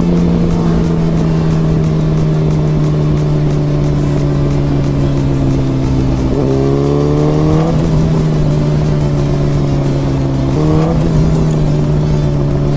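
Suzuki GSX-R1000R inline-four engine running through a full titanium M4 exhaust at a steady cruise. The revs rise and fall about six to eight seconds in, with another short change near eleven seconds.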